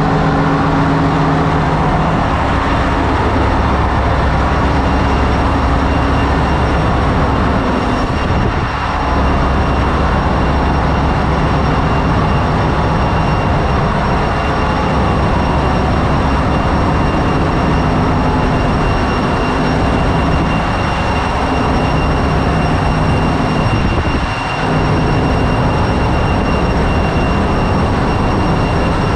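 Ship's engine-room machinery running, a loud, steady noise with a low hum and a couple of thin high whines. It dips briefly twice.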